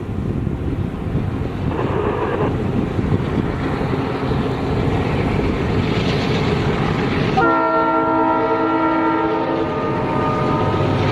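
ND5 (GE C36-7) diesel locomotive rumbling along with its train, then its horn blowing a multi-tone chord for about two seconds, about seven seconds in.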